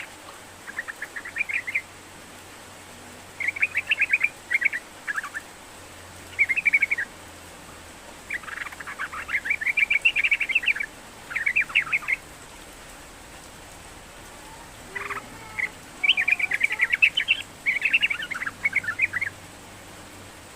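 Sooty-headed bulbul singing: phrases of quick, bubbly chattering notes, each lasting one to four seconds, with short pauses between them over a steady background hiss.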